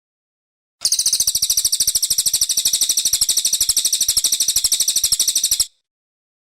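Cililin coklat songbird giving a rapid, high-pitched trill of about a dozen notes a second, lasting about five seconds, starting and stopping abruptly.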